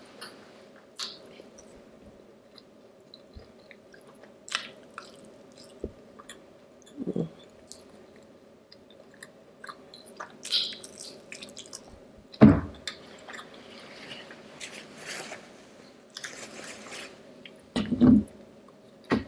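A person chewing and biting food close to the microphone, with wet mouth smacks and small crunches, and a few louder sounds about 7, 12 and 18 seconds in.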